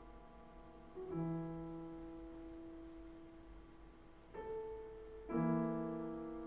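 Piano playing slow, quiet sustained chords: one chord struck about a second in and two more close together after about four seconds, each left ringing and fading away.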